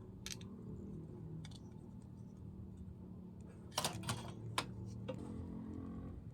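Several short, sharp clicks and taps of small hard objects, single ones at first and then a quick cluster a little past the middle, over a low steady hum.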